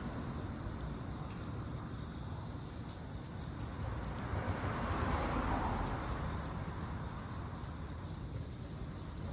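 Campfire burning pine needles: a steady rush of flame noise that swells for a couple of seconds about halfway through as the needles flare up.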